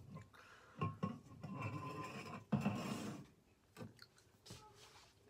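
Household items being shifted around on a kitchen counter to clear space: a string of separate knocks and clatters with rustling between them.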